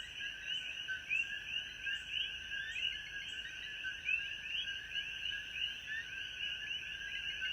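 Tropical rainforest ambience: a dense, continuous chorus of many small animals giving short, quick chirping calls, overlapping without pause.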